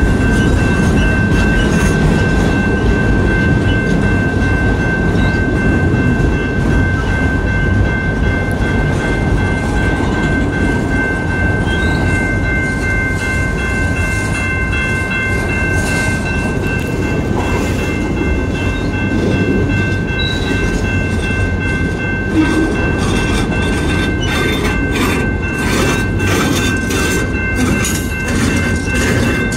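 Freight train of enclosed autorack cars rolling past close by: a loud, steady rumble and rattle of wheels on rail, with a steady high-pitched tone over it. Clicks and knocks come more often near the end.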